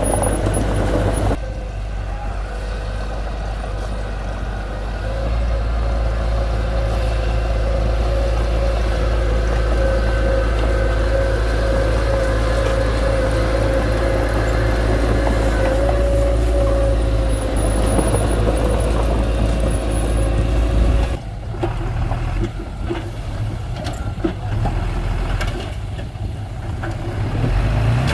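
Diesel engine of heavy construction machinery running under load, a deep steady rumble with a held whine over it. About twenty-one seconds in the whine stops and the sound turns rougher and more uneven.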